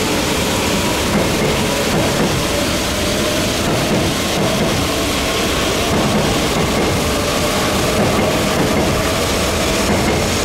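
Joetsu Shinkansen train running past at speed over tracks sprayed by snow-melting sprinklers: a steady, loud rushing noise.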